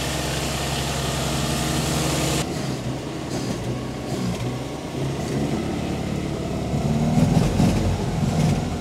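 1954 Austin A30's 803 cc A-series four-cylinder engine idling steadily, newly running again after 52 years laid up. Near the end the engine speed rises and falls a little.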